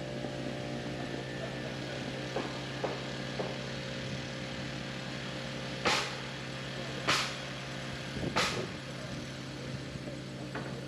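A small engine running steadily at an even pitch. A few light taps are followed by three loud, sharp knocks about a second apart in the second half, from the timber-framing work on the loft joists.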